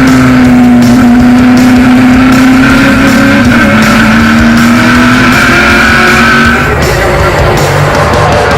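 V8 race cars running at speed on a circuit, mixed with background rock music; the sound changes about two-thirds of the way through.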